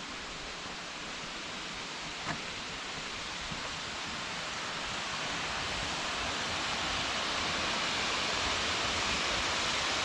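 Rushing water: a steady hiss that grows gradually louder, with a single short knock about two seconds in.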